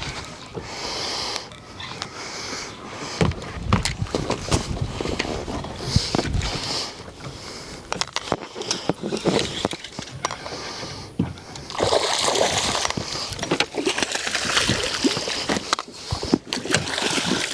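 Water splashing and sloshing in irregular bursts as a hooked redfish is fought and brought in, with a longer, louder stretch of splashing about twelve seconds in.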